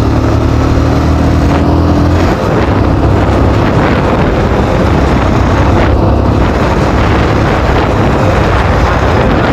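Motorcycle engine running steadily while riding, its hum plain for the first two seconds, then mixed with a loud wind rush on the microphone for the rest.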